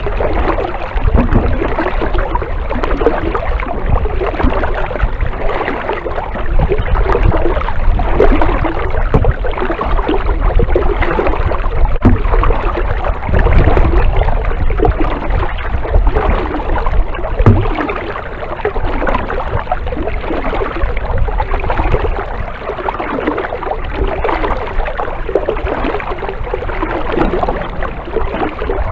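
Kayak paddling: the paddle splashing and dripping as it dips, with water lapping and gurgling around the hull over a steady low rumble.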